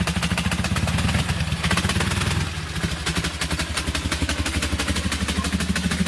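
Dnepr sidecar motorcycle's flat-twin engine running with an even, rapid beat, easing off slightly about halfway through before picking up again.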